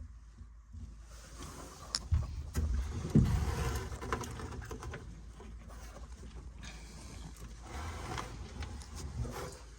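Metal tools scraping and knocking against gas-furnace sheet metal as a stuck part is pried open, with a sharp click about two seconds in and a louder clunk a little after three seconds.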